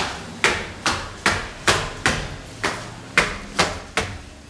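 Footsteps climbing a staircase, about two to three firm, even steps a second.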